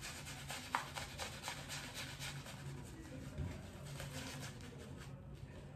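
Shaving brush swirling lather over a face: a soft, crackly rubbing and squishing of foam in quick repeated strokes, with one sharper tick a little under a second in.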